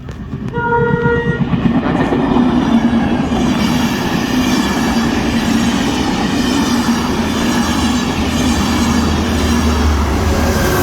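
Enterprise passenger train hauled by a diesel locomotive: a short horn blast about half a second in, then the train passing close by with a loud steady rumble of engine and wheels on the rails.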